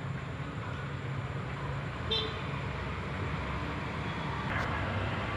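Steady low rumble of background traffic, with a brief short high toot about two seconds in and a faint click near the end.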